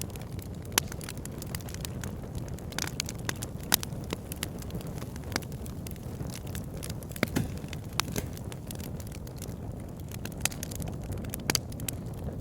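Wood fire burning in a fireplace: a steady low rumble of flame with irregular sharp crackles and pops from the burning logs, a few louder snaps scattered through.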